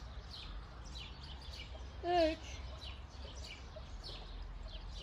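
Small birds chirping in the background, short falling chirps about three a second, over a low steady hum.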